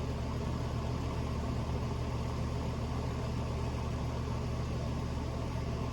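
Steady low hum of an idling engine, even throughout.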